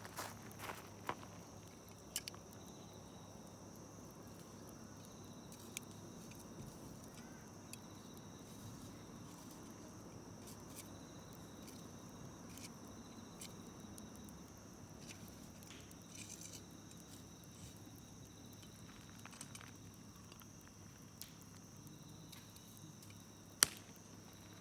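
Campfire burning with scattered faint crackles and pops of the wood, and one sharp pop near the end. Behind it runs a steady high-pitched insect chirring.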